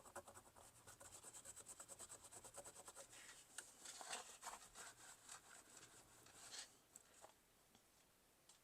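Faint rubbing and scratching on a tarnished 50p coin to clean it: rapid back-and-forth strokes at first, then slower, irregular scrapes that stop about seven seconds in.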